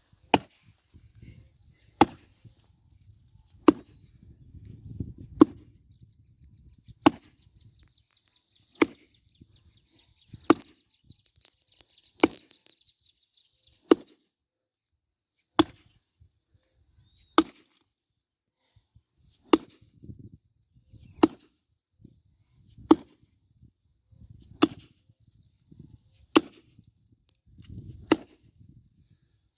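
Axe chopping into a log of hard wood: single heavy strikes at a steady, unhurried pace, about one every second and a half to two seconds, some seventeen blows in all.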